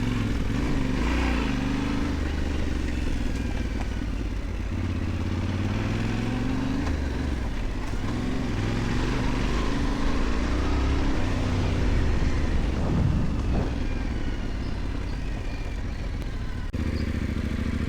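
Yamaha Ténéré 700's parallel-twin engine running as the bike is ridden along a dirt track, its pitch rising and falling with the throttle and gear changes.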